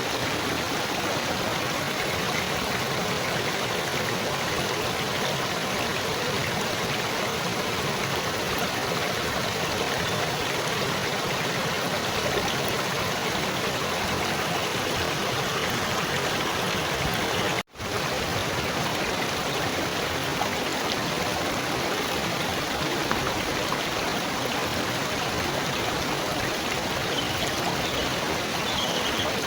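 Steady trickling, babbling water like a small stream, an even rushing splash that cuts out for an instant about two-thirds of the way through.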